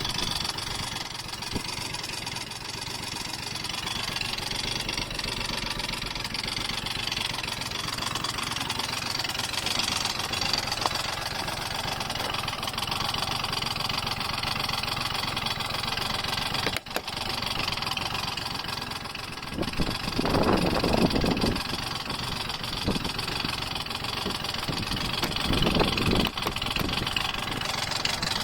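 Honda Gyro Canopy three-wheeled scooter engine running, mostly idling, with two louder surges near the end. It carries the abnormal noise that the owner is recording it for.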